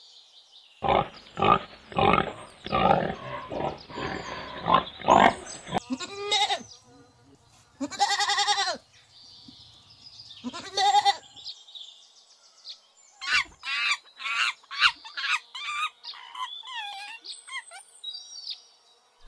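Farm animals calling in turn: a run of short grunts, then three long wavering bleats, then short chirps and clicks near the end.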